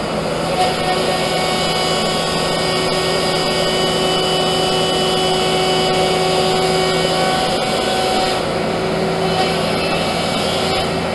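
Leifeld PLB 1200 spinning lathe running, its hydraulic system driving the longitudinal compound slide: a steady machine hum with several held tones.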